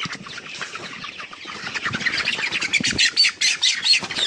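Four-week-old broiler chicken squawking in alarm as it is grabbed by hand, a rapid run of harsh calls that grows louder over the second half and cuts off abruptly.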